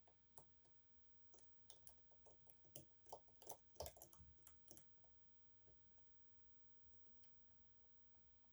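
Faint metallic clicks and ticks of a short hook pick working the unsprung sliders inside an EVVA 3KS lock under tension. A quick flurry of clicks in the first half thins out to a few scattered ones.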